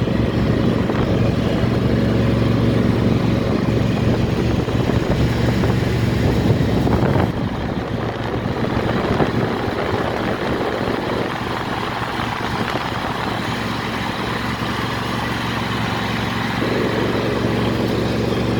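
Steady motor-vehicle traffic noise from passing road traffic, a continuous rumble with a low engine hum, easing slightly about seven seconds in.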